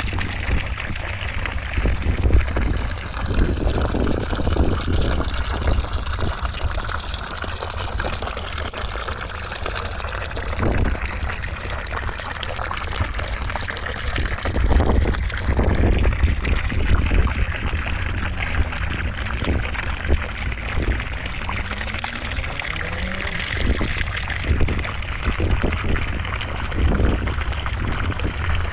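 Continuous rushing noise like gushing water, played as white noise for sleep. It has a strong deep rumble and a few faint soft knocks.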